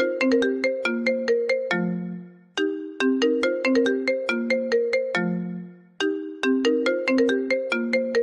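iPhone ringtone playing on a loop: a short melody of quick struck notes over a lower held note, the phrase repeating about every three and a half seconds.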